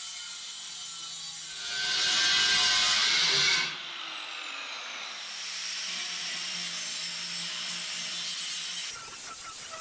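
A power tool cutting steel C-channel. It runs steadily with a low hum, is louder for about two seconds near the start, then a falling whine follows. The sound changes abruptly near the end.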